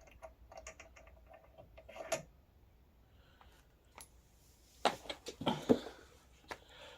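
Parts being handled during assembly: light clicks and rattles from plastic and metal parts, such as a nut and washer coming off the axle and a plastic wheel being taken up. A cluster of louder knocks comes about five seconds in.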